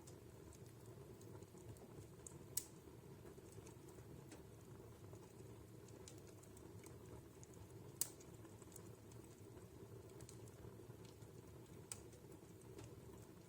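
Wood fire burning in a fireplace: a faint steady hiss of the flames with scattered small crackles, and three louder sharp pops about two and a half, eight and twelve seconds in.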